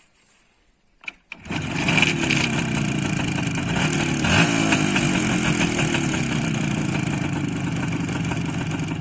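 IZH motorcycle's two-stroke engine started with the exhaust baffle inserts fitted, catching about a second and a half in and then running, with the revs raised and let fall twice early on.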